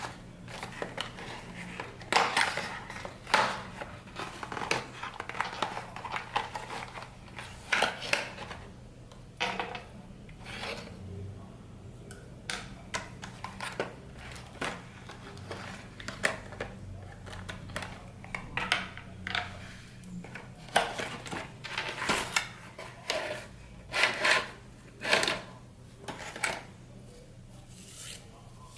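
Irregular handling noises of a DIY Christmas craft kit: small pieces and packaging being picked up, set down and rustled, giving scattered clicks, taps and crinkles.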